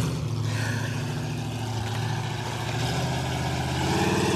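Mustang II drag car's Ford 302 V8, bored .060 over, running low and steady, getting a little louder near the end.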